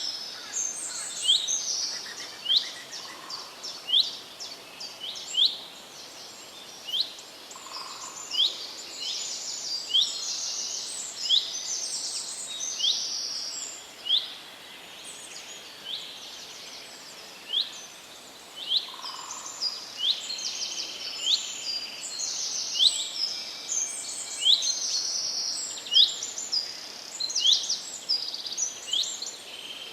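Several songbirds chirping and singing together: sharp single chirps repeated roughly once a second, overlapping quicker trills, over a faint steady hiss.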